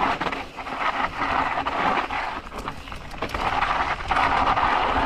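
Mountain bike riding down a rough technical trail: tyres skidding and crunching over dirt and rock, with repeated clatters and knocks from the bike, and wind buffeting the microphone.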